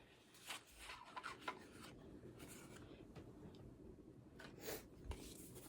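Faint rustling and rubbing with a few light clicks, small objects or paper being handled at close range.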